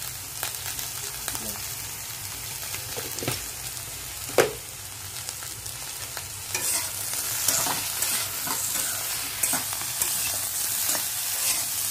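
Eggplant chunks and onions sizzling in hot mustard oil in an iron wok, with a metal spatula scraping and knocking against the pan as they are stirred with turmeric. There is a sharp clink about four seconds in, and the stirring gets busier and louder in the second half.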